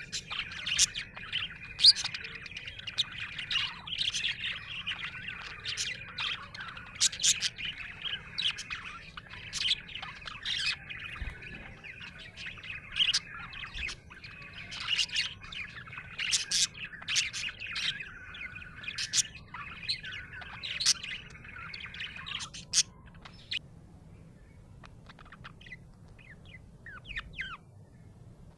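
Budgerigar chirping and warbling: a busy, continuous chatter of sharp chirps over a running warble, which thins to sparse, fainter chirps about three-quarters of the way through.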